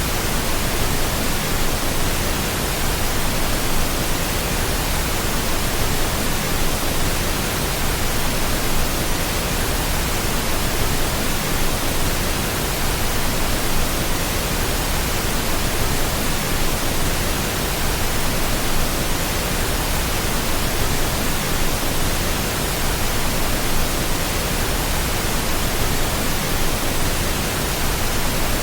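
Steady pink noise, an even hiss with no change or break, played as a baby sleep aid.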